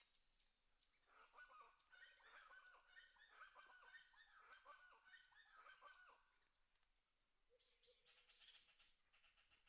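Chickens clucking faintly in a run of short calls lasting about five seconds, over a thin, steady high-pitched trill.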